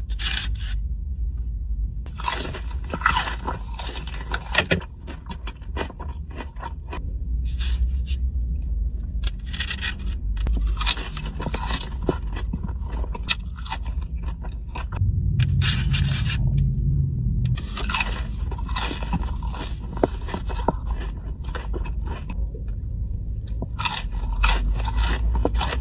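Close-up crunching and chewing of breaded fried chicken tenders (Nashville hot chicken crispers): repeated crackly bites into the crisp coating, in bouts with short pauses between them.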